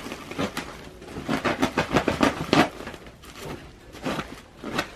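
Freshly cut flexible duct being handled: its plastic jacket and insulation crinkling and scraping in a quick, irregular run of rustles and clicks, busiest in the middle.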